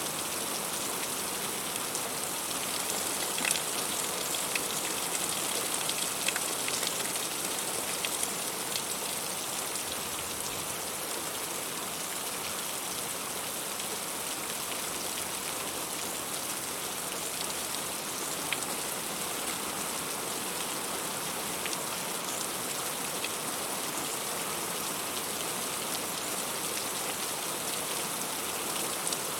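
Heavy rain falling steadily on a fruit tree and its leaves: a dense, even hiss with sharp ticks of single drops now and then, more of them in the first third.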